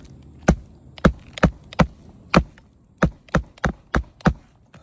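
Hammer striking roofing nails into asphalt shingles, about ten sharp blows at an uneven pace, some in quick pairs.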